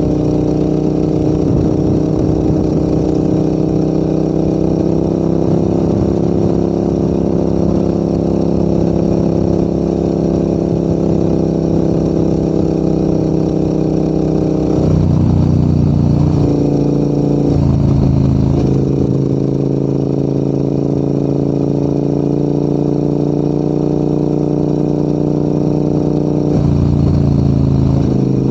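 Motorcycle engine running steadily under way uphill, its note shifting sharply a few times past the middle and again near the end as the revs change.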